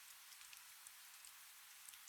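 Faint steady rain: a soft hiss with many small drop ticks scattered through it.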